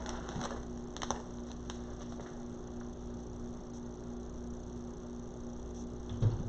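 Steady low electrical hum, with a few faint clicks in the first two seconds and a soft knock near the end as wreath materials are handled.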